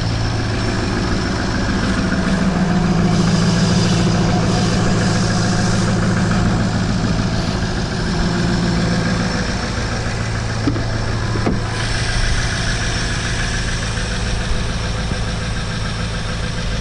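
2004 Ford F-350's 6.0-litre Power Stroke diesel V8 idling steadily after a cold start on a frosty morning, with a brief hiss for a few seconds starting about three seconds in.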